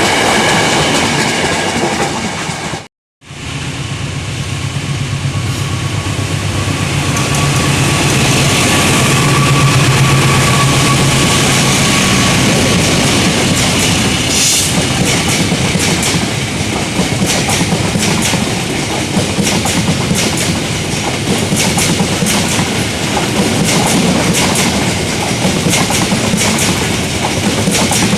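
Train passing close by with a steady rumble, its wheels clacking over the rail joints more and more from about halfway on. The sound cuts out briefly about three seconds in.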